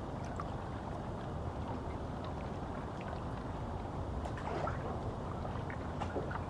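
Small waves lapping and splashing against the reservoir shore, a patter of small splashes over a steady low wind rumble, busier about four seconds in.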